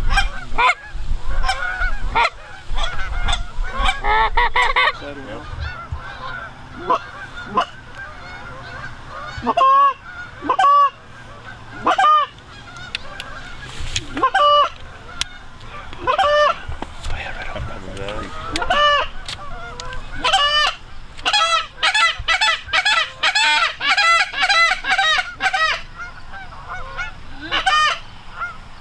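Canada geese honking, many separate honks that come sparsely at first and then thick and fast from about twenty seconds in.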